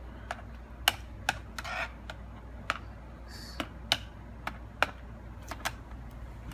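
Irregular sharp clicks and taps, about a dozen, as small hard parts of a laptop are handled and worked loose during disassembly, with a brief scrape about two seconds in.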